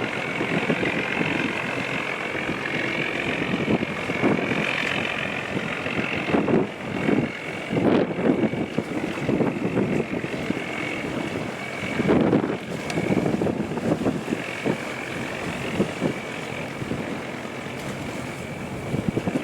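Fishing boat's engine running steadily, with wind buffeting the microphone in irregular gusts.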